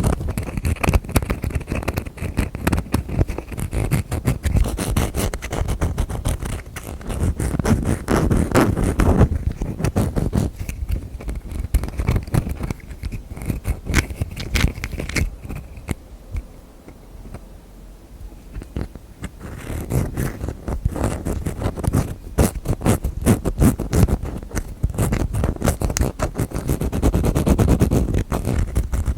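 Close-miked ASMR tapping and scratching with the fingers on objects and their lids: rapid, dense taps mixed with scraping, easing off to quieter, sparser taps for a few seconds in the middle before picking up again.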